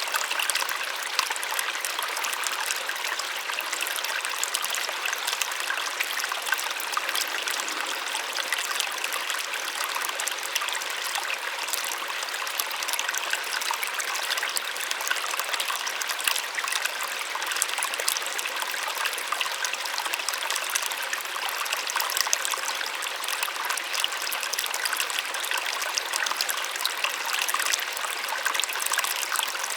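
A small waterfall splashing steadily onto water, a constant light rush with fine splashes and little low rumble.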